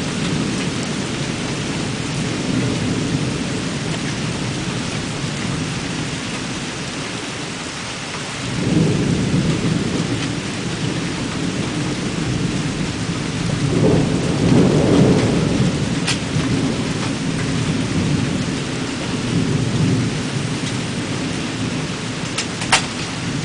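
Thunderstorm: steady heavy rain with rolling thunder that swells into louder rumbles about a third of the way in and again just past the middle. A sharp click comes near the end.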